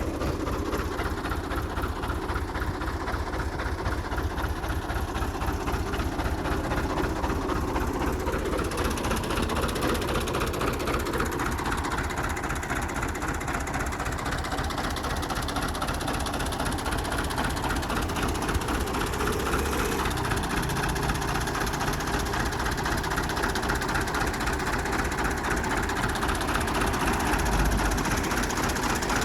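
Fiat 640 tractor's diesel engine running steadily at an even, unchanging speed.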